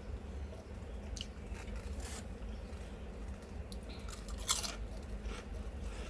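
A person chewing a Subway chipotle steak wrap, with scattered crunchy bites; the loudest crunch comes about four and a half seconds in. A steady low hum runs underneath.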